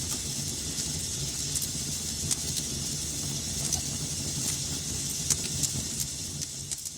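Wood fire burning in a fireplace: a steady hiss with sharp crackles and pops scattered throughout, fading down near the end.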